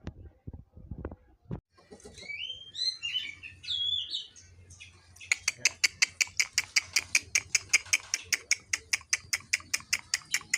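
A songbird singing: a few warbling, gliding phrases, then about halfway through a fast, even run of sharp repeated notes, about six a second, which is the loudest part. A few soft knocks come just before the song starts.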